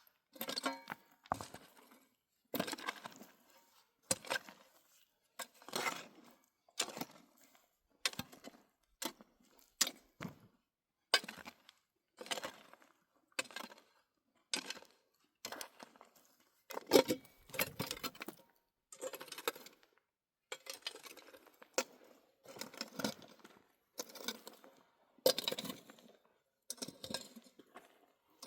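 Repeated gritty scraping and clinking strokes, roughly one a second, of stones and stony soil being shifted by hand.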